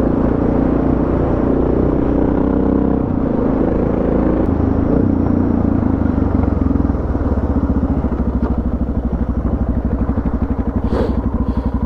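Suzuki DR650's single-cylinder four-stroke engine running hard under throttle on a dirt road. About seven seconds in it drops to lower revs, and its individual firing pulses become distinct as the bike slows.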